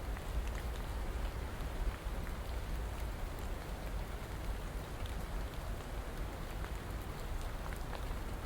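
Steady rain falling, an even hiss with scattered faint patters of single drops.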